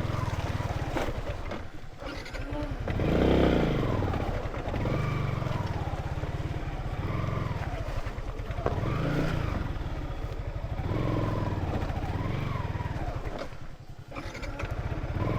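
Small motorcycle engine revving up and easing off again and again, its pitch rising and falling every second or two as the throttle is opened and closed.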